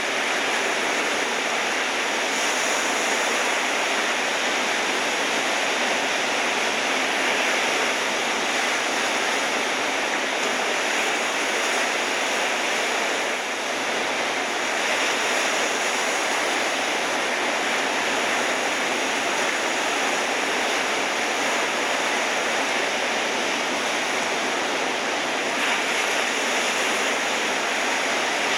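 Steady, unbroken rush of ocean surf, with no single wave break standing out.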